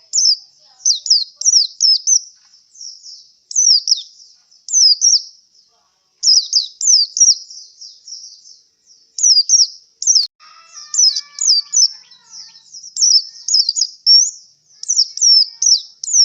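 Male pleci (white-eye) singing: rapid high chirps and quick downslurred notes in bursts, with short pauses between phrases. The keeper describes the bird as tired after a singing contest. A brief lower-pitched sound comes in about ten seconds in.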